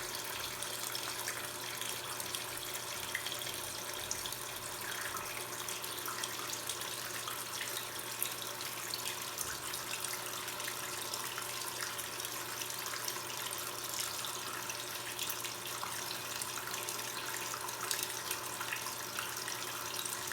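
Water running steadily from a tap or hose into a washing machine's tub to raise the water level, an even hiss with a steady low hum underneath.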